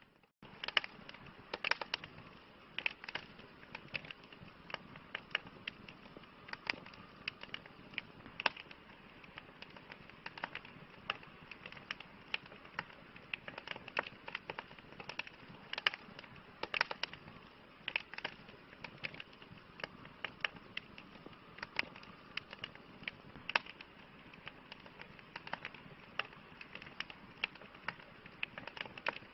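Campfire crackling: irregular sharp pops and snaps, several a second, over a steady soft hiss of burning wood. A brief drop-out comes right at the start.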